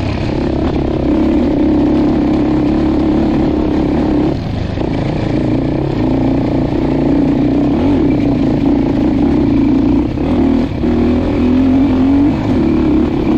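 Dirt bike engine running under constantly changing throttle while riding an off-road trail, its pitch wavering up and down, with short dips in level about four and ten seconds in.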